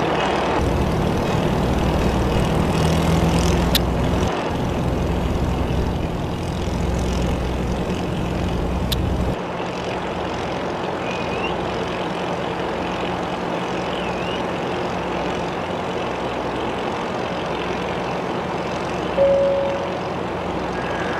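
Enclosed lifeboat's diesel engine running its sprinkler pump, with water spraying over the boat in a steady hiss. The deep rumble drops about nine seconds in, and a short higher tone sounds near the end.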